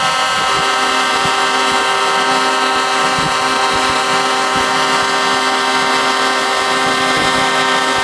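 Truck air horns blowing together in one long, steady, many-toned chord, with another horn joining about half a second in.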